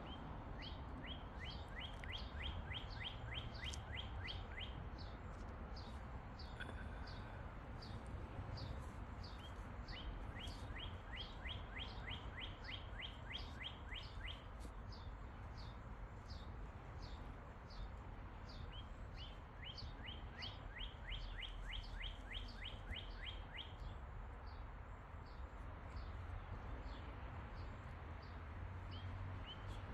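A songbird singing a fast trill of short, downward-sliding notes in bouts of about three to four seconds, repeated roughly every ten seconds, over a steady low rumble.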